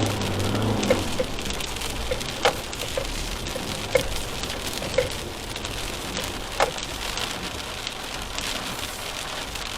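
Rain falling steadily on a vehicle, with about seven loud single drops striking sharply at uneven intervals. A low engine hum fades out about a second in.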